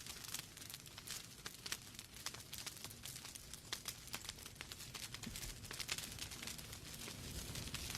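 Wood fire burning in a fireplace: logs crackling and popping irregularly over a low, soft rumble of the flames.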